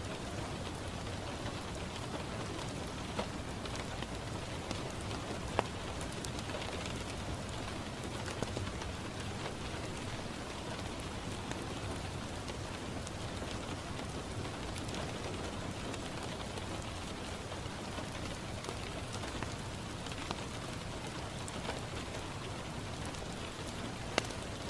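Steady rain falling on a window, with a few sharp pops and clicks now and then.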